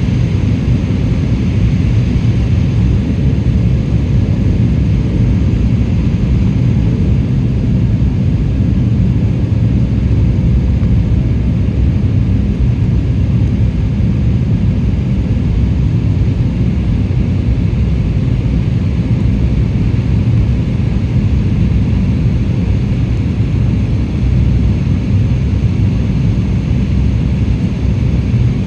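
Steady roar of a jet airliner in flight, heard from inside the passenger cabin: engine and airflow noise, deep and even, with a faint steady whine above it.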